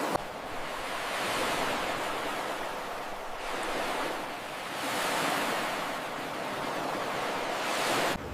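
Ocean surf washing on a beach: a steady rush of breaking waves that swells and eases several times.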